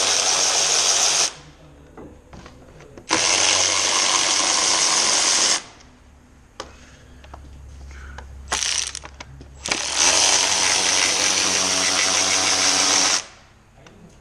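Handheld power tool, such as a powered ratchet or driver, run in bursts of two to three seconds. There are three long runs and a short blip between the last two, with quiet gaps in between.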